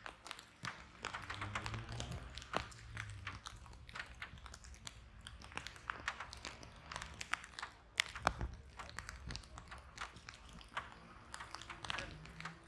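Wood fire in a fireplace crackling and popping irregularly over a steady low rumble of flames, with a sharp pop about eight seconds in.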